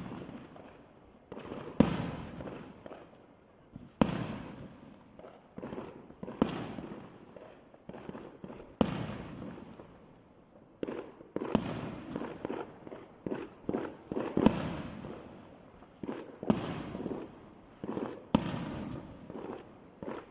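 Fireworks show: loud bangs of bursting shells about every two seconds, each trailing off slowly, with smaller pops in between.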